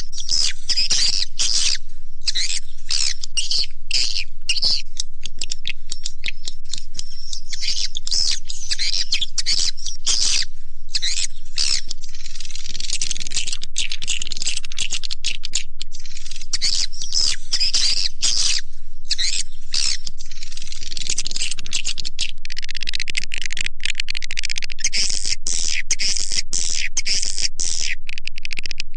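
Swiftlet lure call: dense, continuous twittering of edible-nest swiftlets, full of rapid chirps and clicks at a steady level. This is the calling sound that swiftlet farmers play to draw swiftlets into a nesting house.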